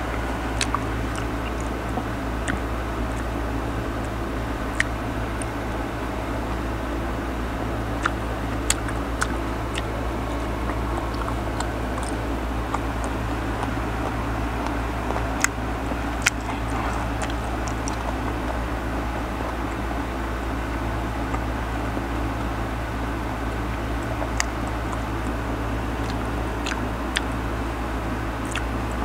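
Close-up chewing and biting of mango slices, with scattered sharp crunchy clicks from the mouth, over a steady low hum.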